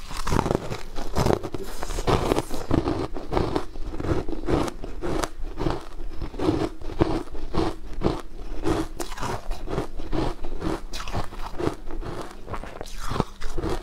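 Close-miked crunching and chewing of frozen food, a steady run of crisp bites and crunches at about two chews a second.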